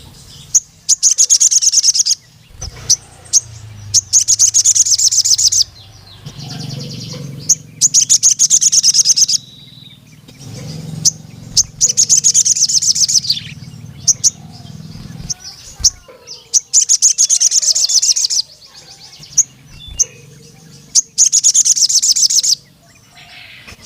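Male crimson sunbird (sogon) singing to challenge rival males: bursts of rapid, high-pitched trilling about two seconds long, repeated every few seconds, with single sharp chirps between them.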